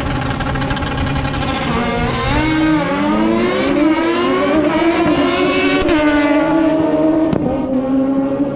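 A drag-racing vehicle's engine accelerating hard down the strip. Its pitch climbs, drops back with each upshift and climbs again, several times over.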